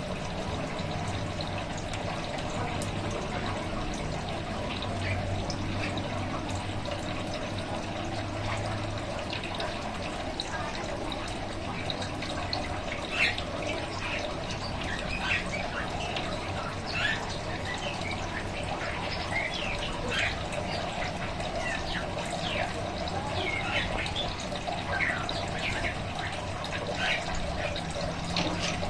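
Steady trickling of running water, with short bird chirps and call notes scattered irregularly over it, growing more frequent from about halfway through.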